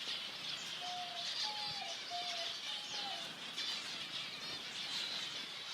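Many small aviary birds chirping and chattering continuously in a dense high-pitched chorus, with a few short low whistled notes about a second in.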